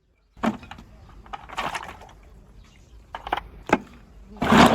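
A string of sharp knocks and short clattering bursts of hard objects, irregularly spaced, with the loudest burst near the end.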